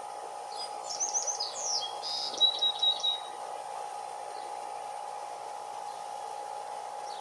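Golden-fronted woodpecker calling: a quick run of high, sharp chirping notes starting under a second in and lasting about two and a half seconds, over a steady background hum.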